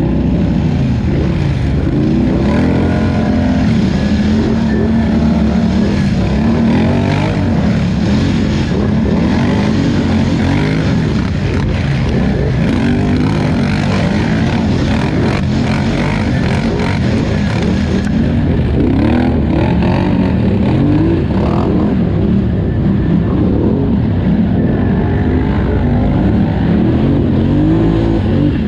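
Polaris Scrambler 1000XP ATV's twin-cylinder engine under racing load, its pitch rising and falling over and over as the throttle is opened and eased off.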